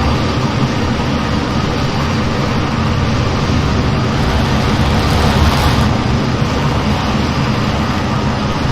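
Steady, loud rushing noise of an F-15 jet in flight, a deep rumble under a wide hiss, which swells briefly about five seconds in.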